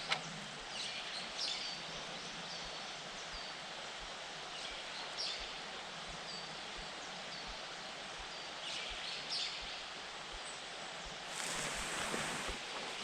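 Wild birds giving short high call notes, singly and in twos, scattered over a steady rushing background; a burst of rustling near the end.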